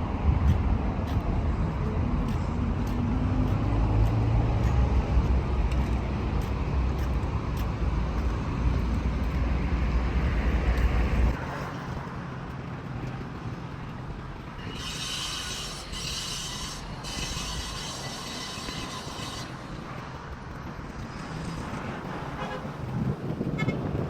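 Street traffic noise with a heavy low rumble that cuts off abruptly about eleven seconds in, leaving quieter background noise. Partway through the quieter stretch a high-pitched sound rings for about five seconds.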